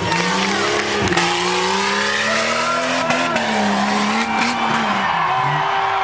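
1993 Jeep Cherokee's engine revving hard, its pitch rising and falling as the 4x4 is driven through an off-road obstacle course, with a few sharp knocks.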